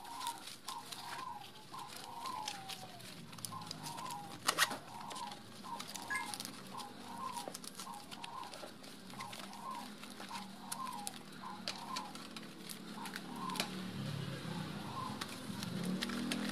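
A bird calling over and over, short calls about two a second that fade out near the end. Beneath them, the rustle and clicks of a nylon webbing strap being rolled up by hand, with one sharper click about four and a half seconds in.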